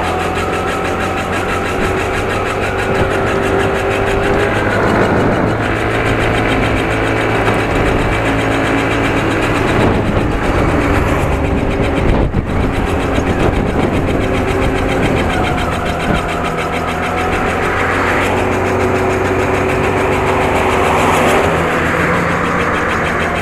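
Small Yamaha R1 Mini motorcycle engine running, its pitch rising and falling a little. A thin steady tone runs over it, which the rider puts down to the brakes squeaking, with the front brake rubbing on something.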